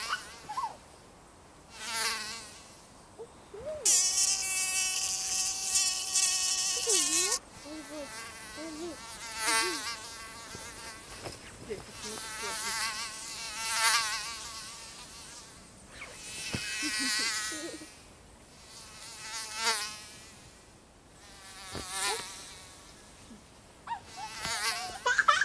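Mosquito buzzing in flight, a high whine that swells and fades every couple of seconds as it passes close, with one longer, louder steady stretch about four seconds in.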